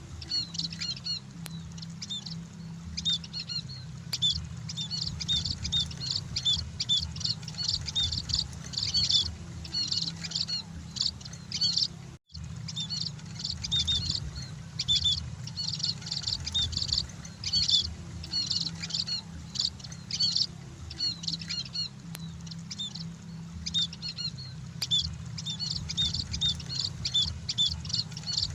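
A flock of munias (emprit) chirping continuously: many short, high chirps crowding over one another, with a brief silent break about twelve seconds in. A steady low hum lies underneath.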